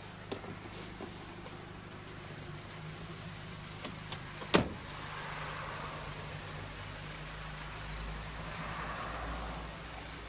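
2006 VW Golf V GTI's 2.0-litre turbocharged four-cylinder engine idling steadily. A car door shuts with a single sharp thud about four and a half seconds in.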